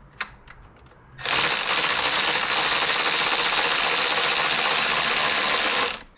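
A few faint clicks, then a cordless power driver spinning steadily for about five seconds and stopping near the end, running in the adjuster bolt that takes up the slack in the Jeep 4.0's serpentine belt.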